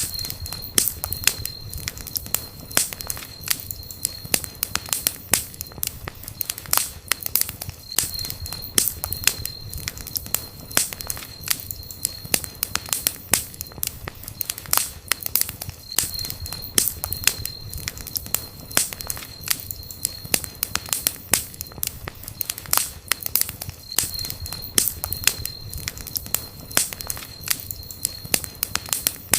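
Wood campfire crackling, with many irregular sharp pops and snaps over a low steady rush of the flames. A thin high whistle comes and goes every several seconds.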